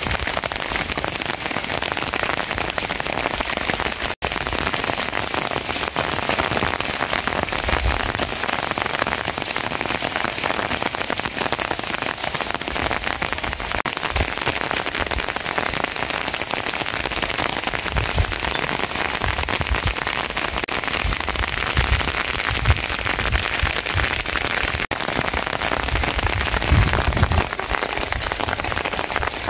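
Steady rain falling, a dense hiss of drops striking surfaces, with occasional low thuds in the second half.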